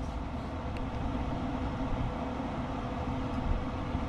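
A steady mechanical hum with a low, even tone, like an engine or motor running at idle.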